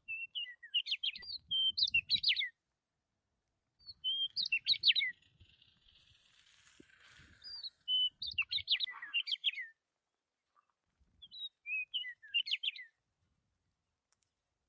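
A small bird chirping in four bouts of rapid twittering, each a couple of seconds long, with short pauses between them.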